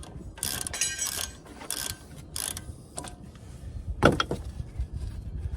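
Ratchet with an 18mm socket working the caliper bracket bolts loose on a Chevrolet Silverado 1500's front brake, clicking in short strokes about every half second to a second. There is a louder squeak with a falling pitch about four seconds in.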